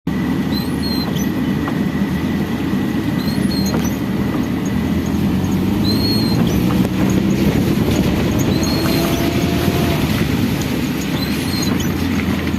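Freight train running past on the rail line: a steady, loud rumble of wagons on the track.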